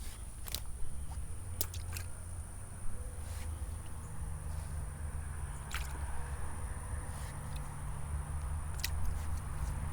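Water dripping and squishing as fish are handled in a bucket of pond water, with scattered small clicks and knocks.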